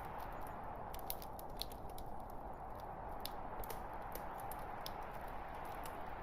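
Burning logs in a fireplace crackling: irregular sharp snaps and pops over a steady hiss.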